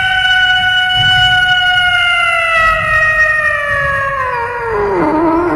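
A cat's long, drawn-out yowl on one held pitch that sinks lower near the end.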